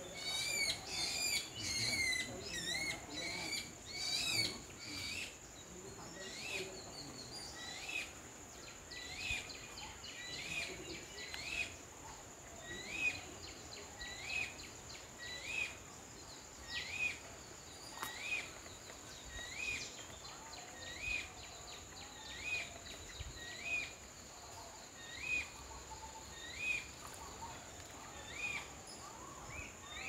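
A bird repeats a short hooked call about once a second, steadily, while a flurry of other birds' chirps and whistles fills the first few seconds. A steady high-pitched tone runs underneath.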